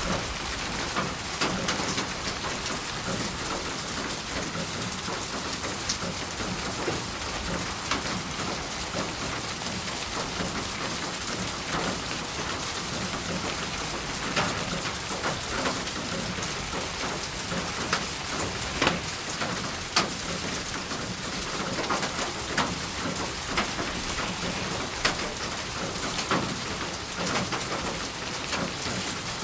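Steady rain falling, an even hiss of rain with many separate drops splashing close by at irregular moments.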